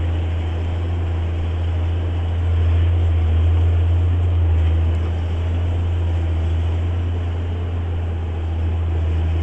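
JCB Fastrac 8250 tractor's engine working under load while ploughing: a steady low drone that swells slightly a few seconds in.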